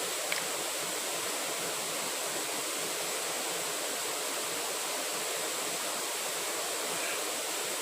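Steady rushing noise of running water, with a thin steady high hiss over it and one faint click about a third of a second in.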